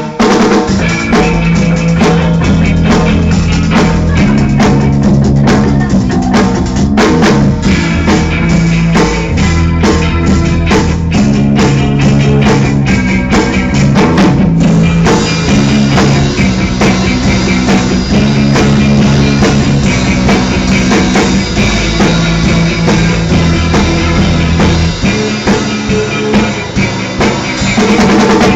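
A live rock band playing loudly, led by a drum kit with bass drum and snare hits over a moving bass line. Near the end the low bass drops away, leaving the drums and the higher instruments.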